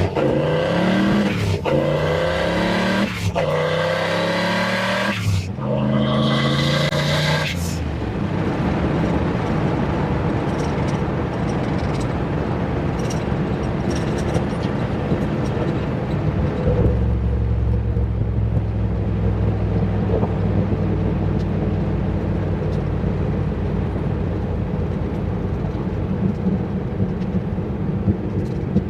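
Turbocharged 351 Windsor V8 in a Fox-body Mustang accelerating hard. The engine pitch climbs and drops back at each of several quick gear shifts over the first seven or so seconds, then it runs steadily at speed, settling into a deeper, even drone past the halfway point.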